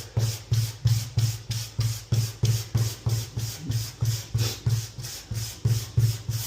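Fine 220-grit sanding sponge rubbed quickly back and forth over dried Bondo filler on a porcelain tub, an even rhythm of about four strokes a second, each a scratchy hiss over a low thump.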